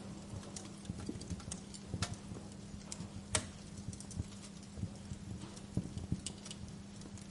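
Wood fire crackling, with irregular sharp pops and snaps; a louder pop about three and a half seconds in. A steady low hum runs underneath.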